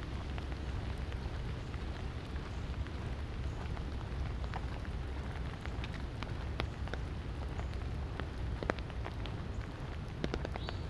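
Light rain falling steadily, with many scattered sharp drops landing close by, over a steady low rumble.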